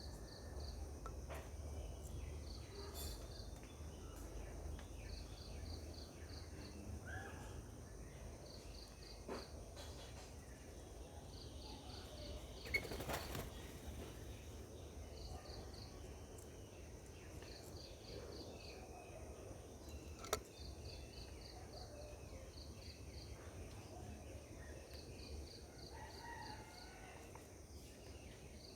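Faint garden ambience: an insect chirps in short pulsed trills, about one trill every two seconds, with faint bird chirps. A short rustle with a sharp tap comes about halfway through, and another sharp tap about two-thirds in.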